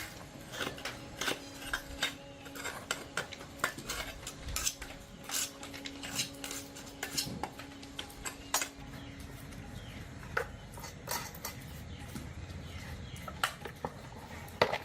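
Irregular clinks and taps of small metal parts and tools being handled and set down during work on a rusty chainsaw.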